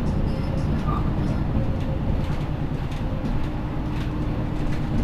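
MAN Lions City G articulated bus with a Euro 6 diesel engine running steadily, a low rumble with a few light clicks and rattles. A faint steady whine comes in about three seconds in.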